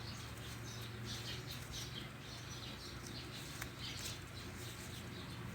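Small birds chirping in many short, repeated high notes, over a faint low steady hum, with one brief click a little past the middle.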